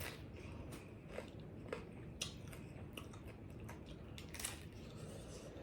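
Close-miked chewing of a pizza taco, with scattered small crunches and mouth clicks at an irregular pace.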